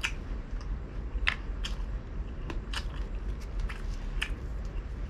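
Close-up chewing of crispy fried pork belly (pinakupsan), with about half a dozen sharp, irregular crunches as the crisp pieces break between the teeth.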